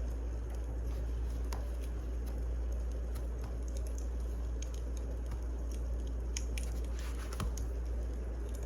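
Wood fire burning: a steady low rumble with scattered sharp crackles and pops, a small cluster of them about six to seven seconds in.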